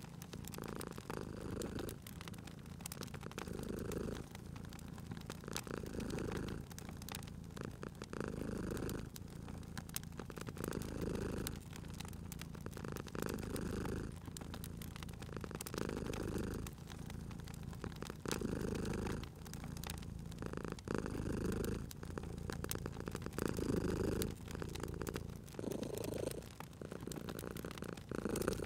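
Domestic cat purring in a steady rhythm of swells and dips, about one every second and a half, with the crackle and small pops of a wood fire scattered throughout.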